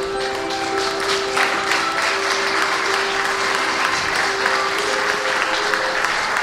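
Audience applauding over music with long held notes; the applause swells about a second and a half in.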